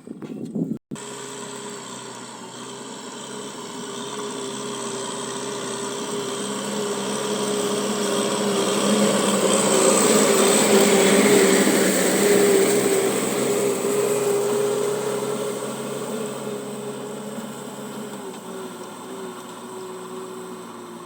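Ploughing tractor's engine running steadily, growing louder as it comes near and then fading as it moves away.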